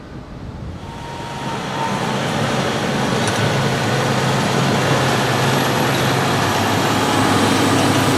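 A heavy diesel farm vehicle's engine running, growing louder over the first couple of seconds as it comes close, then holding steady and loud.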